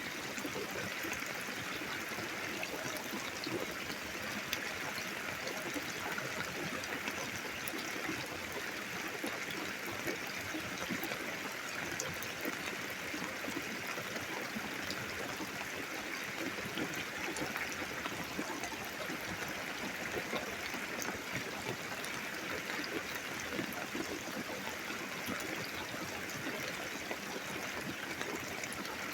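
Steady rain falling during a thunderstorm, an even rush of water with many fine ticks of drops striking.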